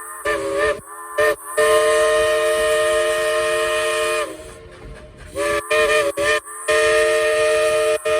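Dollywood Express steam locomotive's chime whistle sounding a chord in a run of short toots and two long blasts, the first lasting about two and a half seconds, with steam hissing in the gaps.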